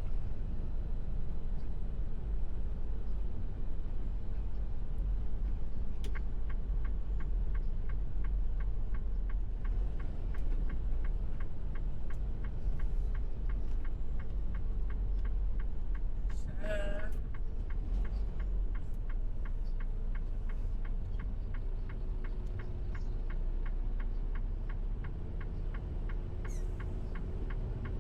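Steady low rumble of a semi truck heard from inside the cab. From about six seconds in, an even, rapid ticking runs on, and a brief squeak comes about halfway through.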